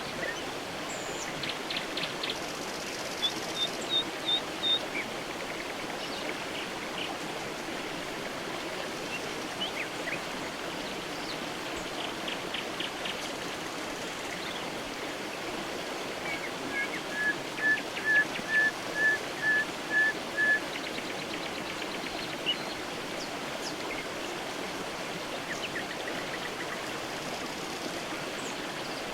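A creek running steadily, with birds calling over it: a short series of high notes a few seconds in, brief trills, and a louder run of about eight even, lower notes a little past halfway.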